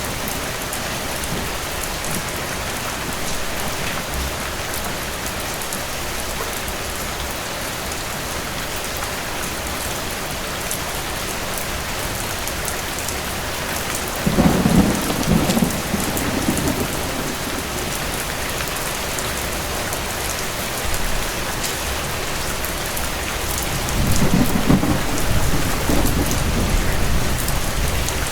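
Steady rain, with two low rolls of distant thunder, one about halfway through and one near the end, each lasting a few seconds.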